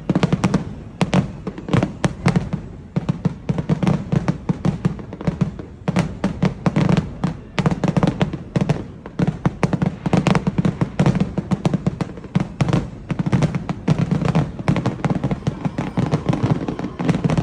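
Fireworks going off in a dense, continuous barrage: many sharp bangs and crackles a second, with no pause.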